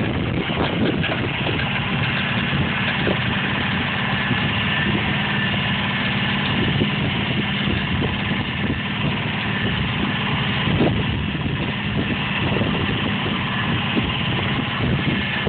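Engines of a 4x4 van and a stuck Jeep Grand Cherokee running steadily as the van tows the SUV out of deep mud. The sound is an even low engine hum with no sharp revving.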